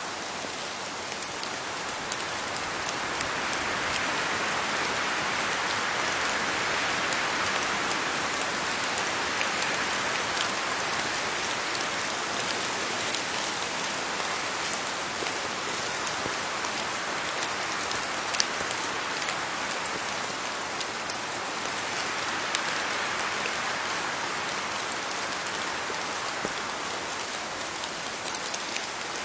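Steady rain falling on leaves, a dense hiss of drops with scattered sharper individual drip ticks. It swells a little a few seconds in and again past the middle.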